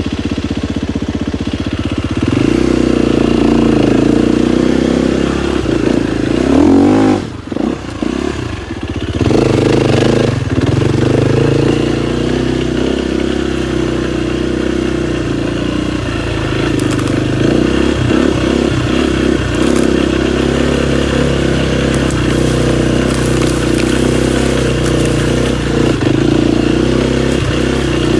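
KTM 250 XCF-W's single-cylinder four-stroke engine running under throttle, picking up about two seconds in, dropping off briefly with a few quick revs around seven seconds, then pulling steadily again.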